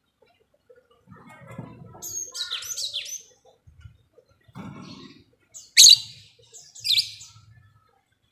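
Lovebirds chattering and calling: a run of raspy chatter in the first half, then two loud, shrill shrieks about a second apart near the end.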